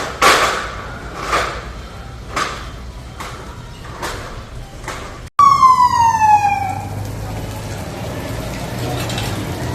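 An emergency-vehicle siren falling in pitch for about a second and a half, starting abruptly about halfway through, over a low steady engine hum. Before it comes a run of short hissing swishes, about one a second.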